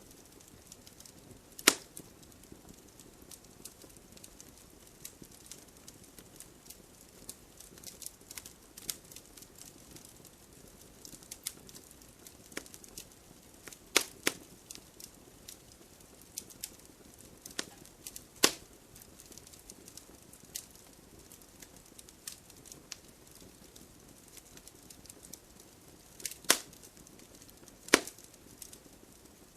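Burning firewood crackling: scattered small snaps over a low hiss, with a handful of loud sharp pops about two, fourteen, eighteen, twenty-six and twenty-eight seconds in.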